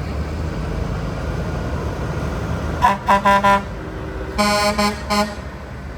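Vehicle horn sounding in two bursts of short, chord-like toots: about four quick toots around three seconds in, then three more a second later, over a steady low engine rumble.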